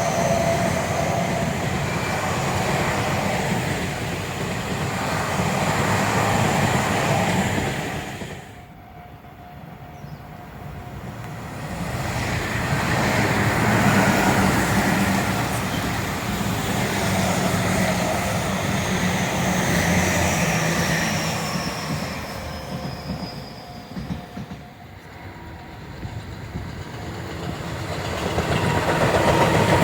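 Tobu Tojo Line trains passing at trackside: wheels running over the rails with clickety-clack and some wheel squeal. The sound swells and fades away twice, as one passing ends and the next begins.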